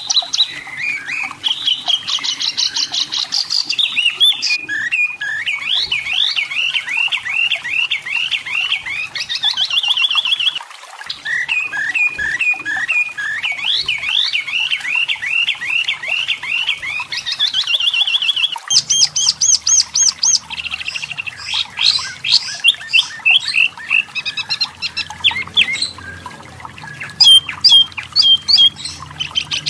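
Wambi mini (tepus lurik) singing: fast runs of repeated high chirping notes and quick trills, switching to a new phrase every few seconds, with sharper clipped notes near the end.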